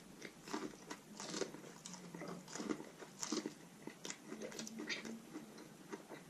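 Close-mic'd eating: biting kernels off a roasted corn on the cob, a quick run of short crunchy bites mixed with wet chewing.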